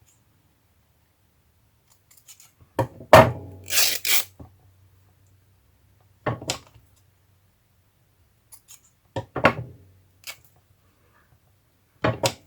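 Scissors snipping through craft material in short groups of cuts a few seconds apart.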